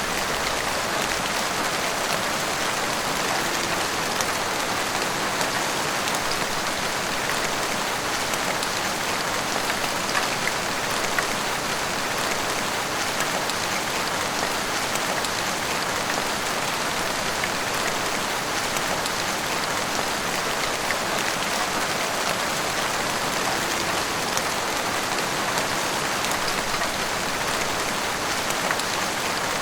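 Heavy rain falling steadily, drops pattering on roofs and the street.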